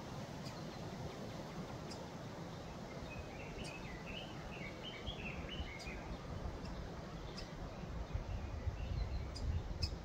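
A small forest bird calling: a run of short chirping notes starting about three seconds in and lasting about three seconds, over steady background noise. A low rumble builds near the end.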